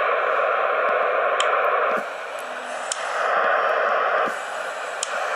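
Steady static-like hiss with a faint steady tone in it. It drops in level briefly twice, with a few faint clicks.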